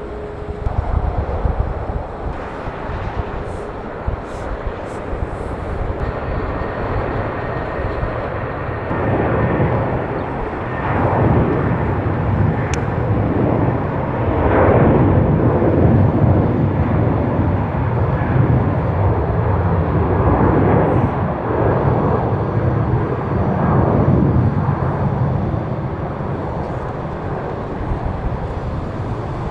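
Jet airliner taking off close by: the engine roar swells about a third of the way in, is loudest through the middle with a wavering sweep, then eases off near the end.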